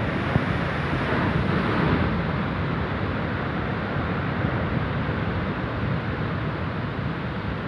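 Rough sea: surf washing and breaking against rocks in a steady rush that swells briefly about a second in, with wind buffeting the microphone.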